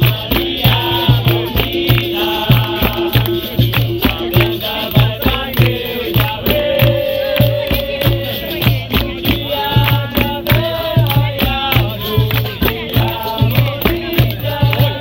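Capoeira roda music: a berimbau with its caxixi rattle and hand drums keep a steady, even beat, while voices sing over them.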